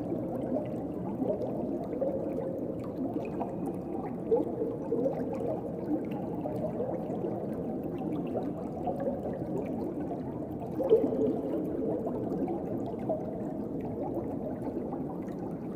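Muffled underwater ocean ambience: a steady low rush of water with small gurgling bubbles, and one louder gurgle about eleven seconds in.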